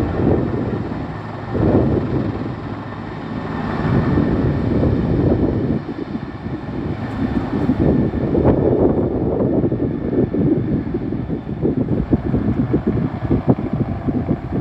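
Firefighting helicopter running, its rotor and engine noise mixed with heavy wind buffeting on the microphone. A faint steady engine tone fades out after the first few seconds, leaving a fluctuating rumble.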